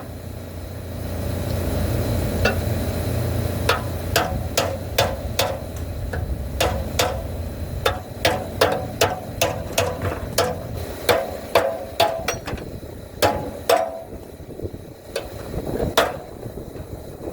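Hammer striking metal, a long run of sharp blows with a short metallic ring, about two to three a second with brief pauses, most likely knocking at a broken fan pulley on its motor shaft. A low hum fades out over the first few seconds.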